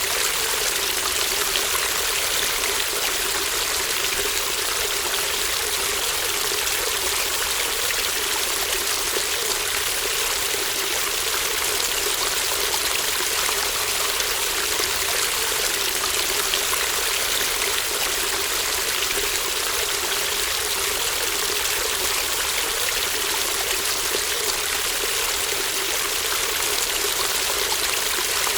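Shallow brook babbling steadily, a continuous even rush and trickle of running water.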